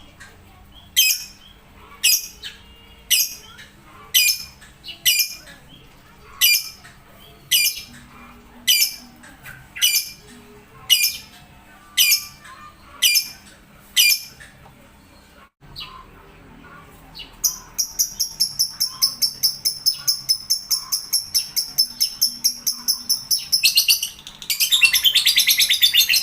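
Lovebird calling: sharp, high chirps about once a second, then after a short pause a fast, continuous run of chirps that grows louder and denser near the end.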